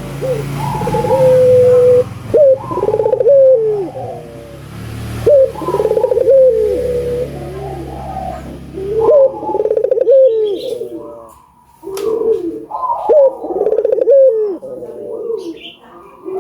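Albino Barbary dove (burung puter) cooing in full song: loud, repeated coo phrases, each opening with a sharp rising and falling note and following one another every second or two.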